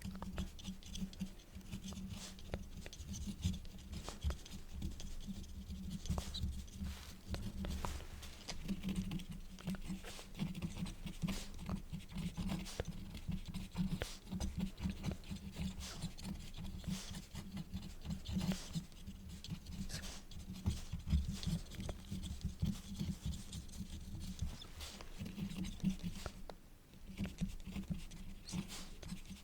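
Quill pen nib scratching across paper in a steady stream of short, quick strokes, with a brief pause near the end.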